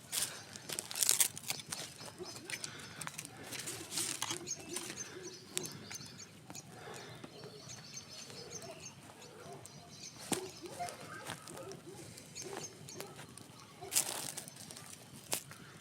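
Campfire crackling, with sharp pops about a second in, at about four seconds and near the end, and faint animal calls behind it.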